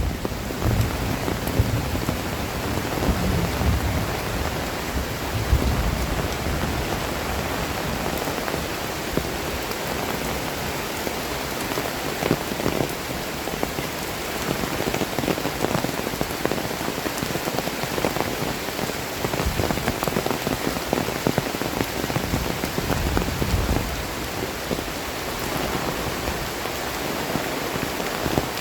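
Heavy tropical rain pouring steadily, a dense even hiss of rain on the ground and surfaces, with a few low rumbles swelling up now and then.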